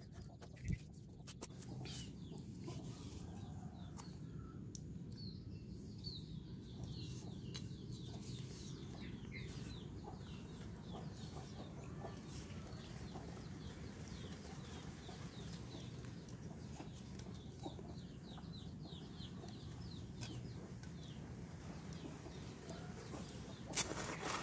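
Birds calling in short, high, repeated chirps over a steady low hum. A sharp knock comes about a second in, and a louder clatter of knocks near the end.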